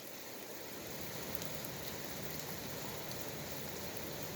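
Steady rain falling, a soft even patter with faint scattered drips.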